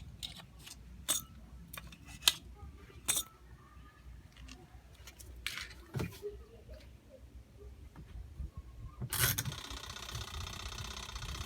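Faint, scattered small mechanical clicks and knocks, with a louder burst about nine seconds in followed by a faint steady hiss.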